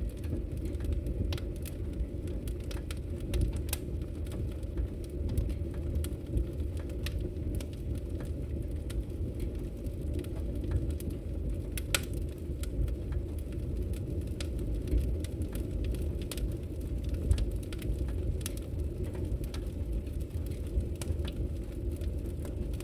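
Wood logs burning in a fireplace, crackling with many irregular sharp pops over a steady low rumble.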